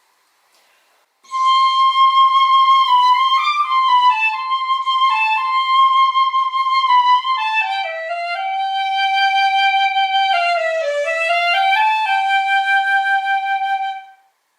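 Piccolo playing a short solo melody of held and stepping notes. About halfway through the melody moves to lower notes, and it stops just before the end.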